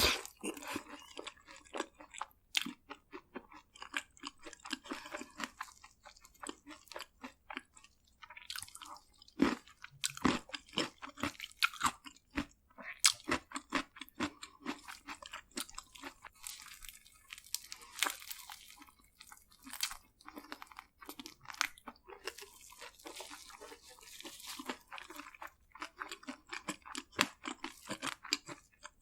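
Close-miked eating sounds: crispy fried food being bitten, crunched and chewed, in irregular crackles with pauses between mouthfuls.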